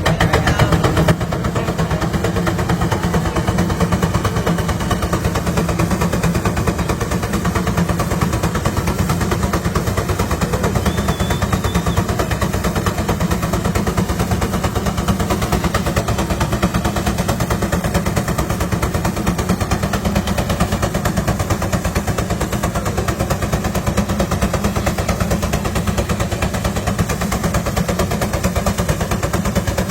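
Vintage engine running with a rapid, steady train of sharp exhaust reports, a little louder in the first second.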